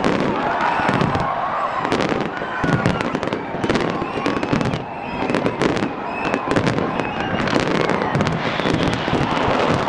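Fireworks display: a dense, unbroken run of sharp cracks and pops from bursting shells and crackling effects.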